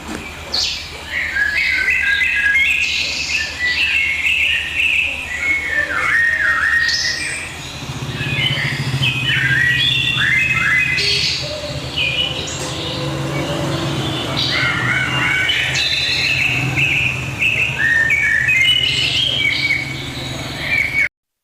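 Birds chirping and calling, with many short whistled notes and trills overlapping. A low steady hum runs underneath from about a third of the way in. The sound cuts off suddenly near the end.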